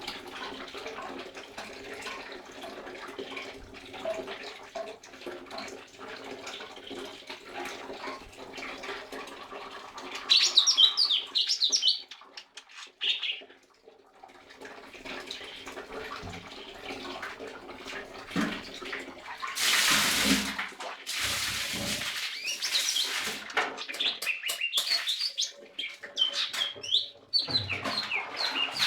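Lesser green leafbird chirping and twittering in quick high phrases, a burst about ten seconds in and a longer run in the last third. Underneath is a rushing, water-like noise with a loud noisy surge about two-thirds through.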